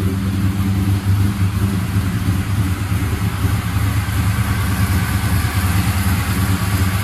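Freshly built engine of a 1957 Chevrolet idling steadily, run to bring it up to temperature.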